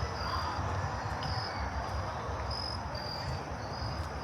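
Crickets chirping: a steady series of short, high chirps repeating about twice a second, over a low, steady city rumble.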